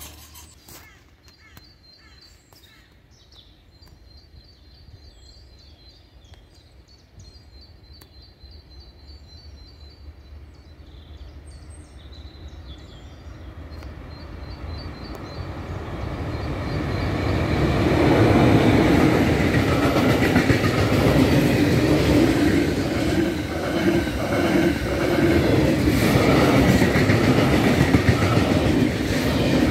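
A locomotive-hauled transfer train, with wagons and unpowered multiple units in tow, approaching and passing a level crossing. A rumble rises from about halfway, and from about two-thirds of the way in there is loud wheel-on-rail noise with the rhythmic clickety-clack of the wheels over the rail joints as the vehicles go by.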